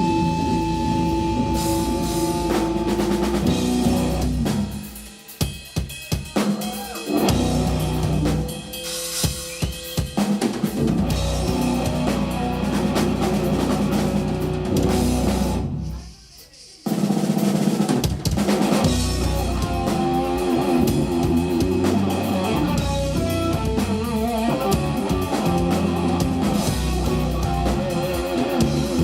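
Live instrumental jazz-rock fusion band playing, with the drum kit prominent: snare, rimshots and bass drum. The band plays a choppy stop-start passage about five seconds in and cuts out together for about a second in the middle before crashing back in.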